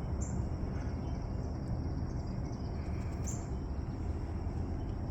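Outdoor background noise: a steady low rumble, with two brief high chirps about three seconds apart.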